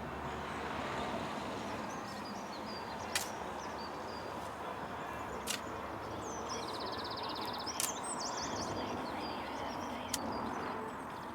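Birds chirping over a steady outdoor hiss, with one rapid trill near the middle. Sharp knocks come about every two seconds, four in all.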